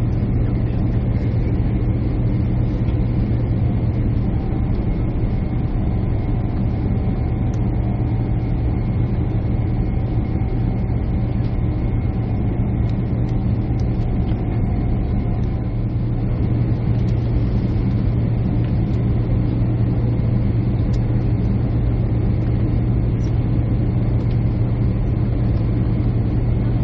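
Steady low drone of jet engines and airflow heard inside an airliner cabin, unchanging throughout. A faint thin tone sits over it for about eleven seconds in the middle.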